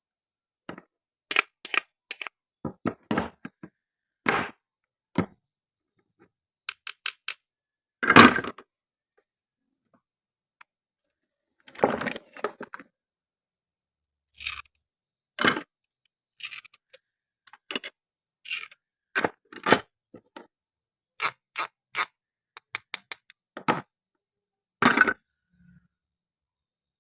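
Toy food pieces being handled and cut: an irregular run of short, sharp clicks, clacks and scrapes, some in quick clusters, with dead silence between them.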